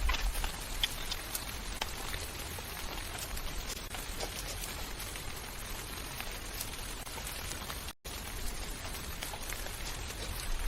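Steady rain, with many individual drops heard as small scattered ticks over a continuous hiss. The sound drops out briefly about eight seconds in.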